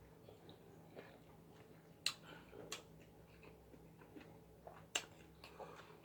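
Faint eating sounds: a handful of short, sharp clicks and small cracks, loudest about two seconds in and again near five seconds, as food is pulled apart by hand and chewed.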